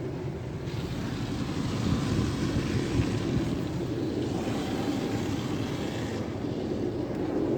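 Jim Coleman Water Wizard 1.0 automatic car wash machine running with a steady low rumble. A loud hiss joins it about a second in and cuts off about six seconds in.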